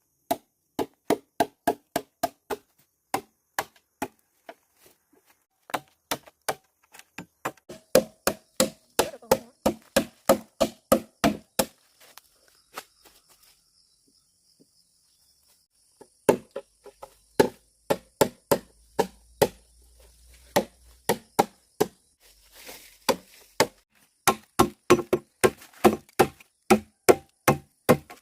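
Rapid chopping strikes on wood, about three a second, in runs broken by a pause of a few seconds around the middle.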